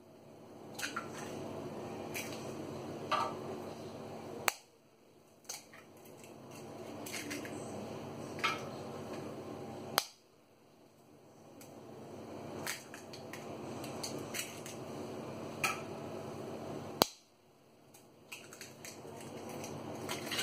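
Eggs being cracked one after another against a mixing bowl, sharp cracks every second or two over a steady background hiss; the sound cuts out abruptly three times.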